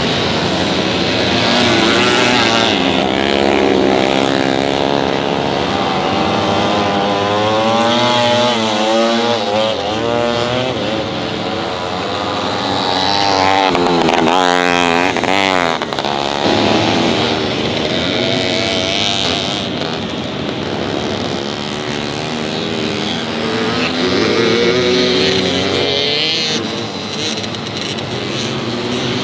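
Vintage motorcycles' small two-stroke engines revving hard as several bikes race past. Their pitches rise and fall with throttle and gear changes and overlap one another.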